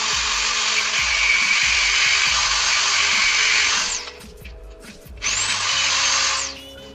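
A high-speed power tool, likely a rotary tool grinding or polishing metal, runs steadily, stops about four seconds in, then spins up again with a rising whine and runs for about another second before stopping. Background music plays underneath.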